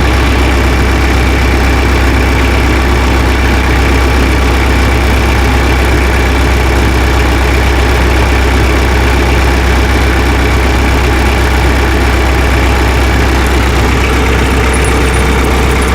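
Tractor engine idling steadily, a constant low drone with no change in speed.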